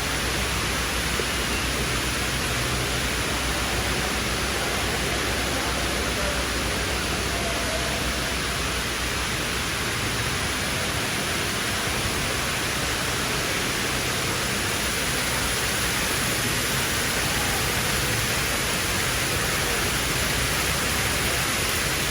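Steady rush of water falling down the Dubai Mall's indoor waterfall.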